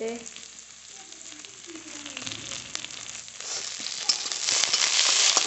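Chopped onion, garlic and fresh curry leaves frying in hot oil in a kadhai. A low sizzle grows much louder and crackly about three and a half seconds in.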